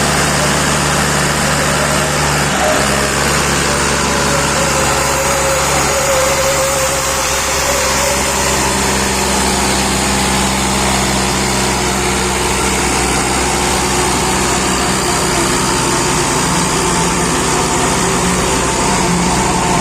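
Swaraj 744 tractor's diesel engine running steadily, its pitch stepping up slightly a few seconds in.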